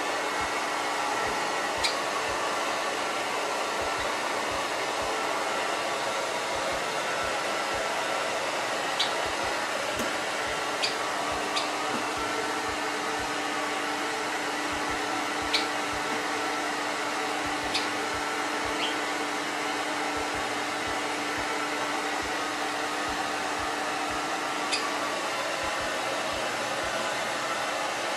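Hair dryer running steadily, with a low hum under its rushing noise, while a white Java sparrow, excited by the dryer's sound, gives about eight short, sharp chirps scattered through it.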